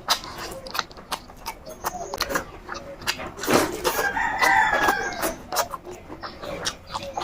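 A rooster crows once, a long call starting about three and a half seconds in, over a run of close-up wet clicks and smacks from someone chewing food.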